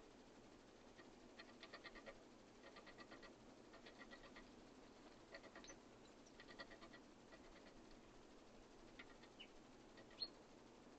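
Faint small-bird sounds: several short runs of rapid ticking, chattering notes, each lasting about half a second, with a few brief high chirps between them and one sharper chirp near the end.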